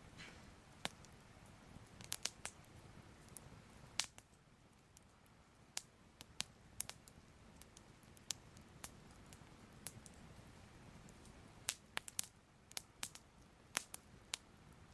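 Soft fire crackling: irregular sharp pops and snaps, some in quick clusters, over a quiet low hiss.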